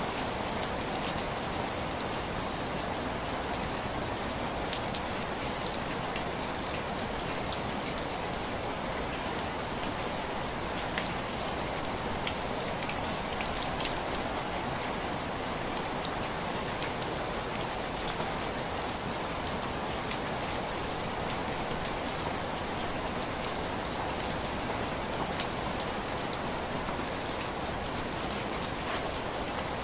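Steady rain pattering on window glass, with scattered sharper taps of single drops.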